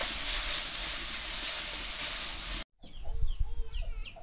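Saag frying in an aluminium kadai, a steady sizzle as a spatula stirs it, cutting off abruptly a little over halfway. Chickens then cluck, with high chirping calls.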